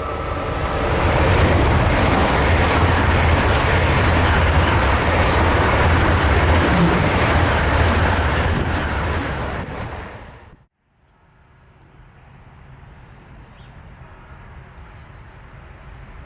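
A train passing close by at speed, a loud rushing noise over a low rumble that swells, holds for several seconds and fades. About ten seconds in it cuts off abruptly, leaving a much quieter steady background.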